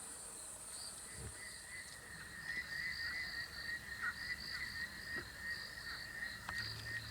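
Steady chorus of calling insects and frogs in the bush: a warbling trill with a higher, pulsing call over it.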